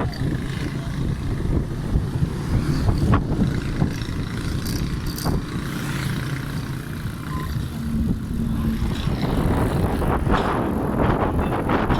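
Riding noise on a bicycle on an open road: wind rumbling on the microphone over the sound of road traffic, getting louder and brighter near the end.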